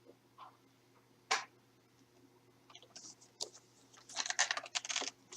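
Small hard objects being handled: a single short scrape a little over a second in, then a couple of seconds of quick crackling clicks and rustles, typical of a boxed toy truck and its packaging being picked up and turned over.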